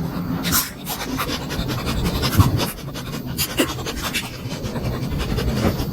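Close-miked mouth sounds of someone eating momos: wet chewing with many short, irregular smacks and clicks over a low rumble.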